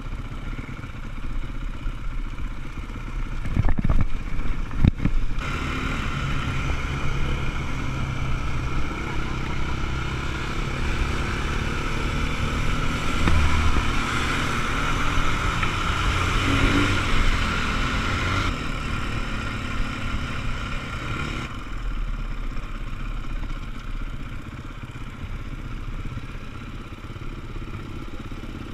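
Off-road motorcycle engines running, louder and fuller for a long stretch in the middle, with a few sharp knocks about four seconds in.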